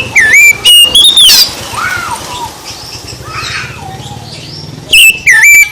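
Oriental magpie-robin (kacer) singing: loud, clear whistled notes sliding up and down in quick phrases, one burst at the start and another near the end, with softer chattering between.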